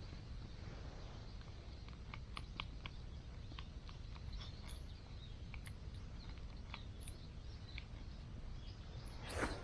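Steady low outdoor rumble with scattered faint short pops and chirps, and a brief louder rustle near the end.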